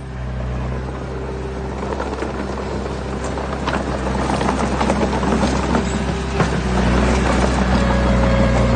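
A heavy earthmoving machine's diesel engine running steadily under load, growing louder over the last few seconds, with a dense clatter and crackle of stones moving and grinding from about two seconds in.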